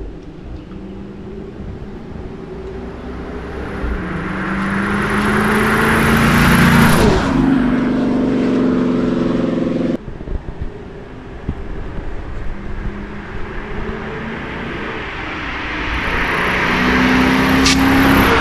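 A 2013 Dodge Charger R/T's 5.7-litre Hemi V8 being revved hard with the rear wheels spinning on wet pavement, heard from outside the car. The engine climbs to high revs, holds them, and cuts off abruptly, then builds up again near the end.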